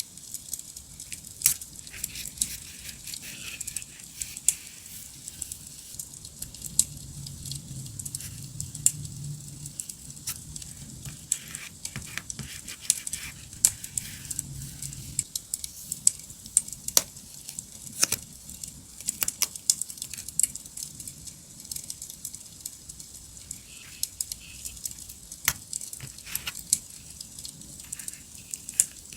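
Campfire crackling: a steady hiss with many sharp, irregular pops and snaps, mixed with light handling sounds of paper and stickers.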